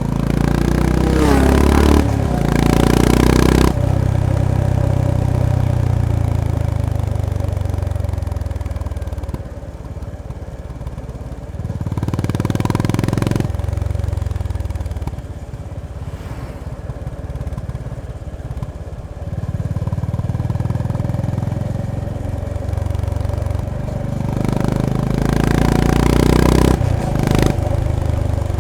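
Honda GB350S (CB350RS) single-cylinder engine under hard riding. It revs up and shifts gears several times, drops back to quieter stretches on a closed throttle, and accelerates hard again near the end.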